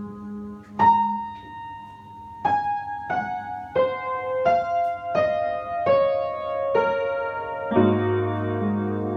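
Slow solo piano music: single notes struck one after another, falling in pitch, with a low chord coming in near the end.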